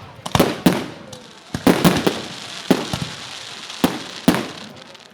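Fireworks going off: about seven sharp bangs at irregular intervals, some in quick pairs, each with a brief echoing tail.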